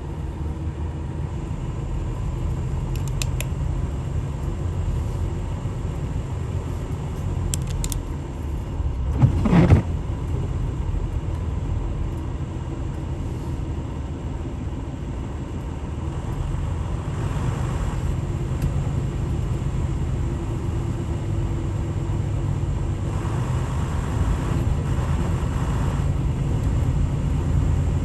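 Vehicle engine running steadily at low pitch, with a brief louder rising-and-falling whoosh about ten seconds in.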